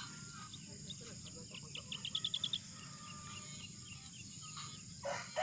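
A bird gives a quick run of seven or eight high chirps about two seconds in, followed by fainter scattered chirps over a steady faint outdoor background.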